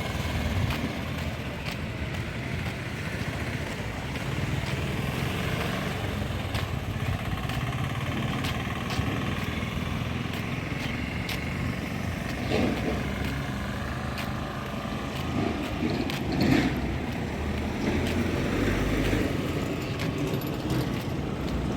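Road traffic, mostly motorcycles and cars, passing steadily, with louder passes a little past the middle and again about three-quarters of the way through.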